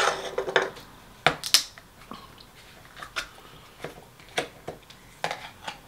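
Close-up eating sounds: chewing with irregular wet smacks and clicks of the mouth, nine or so sharp ones spread across the few seconds, after a short crunch at the start.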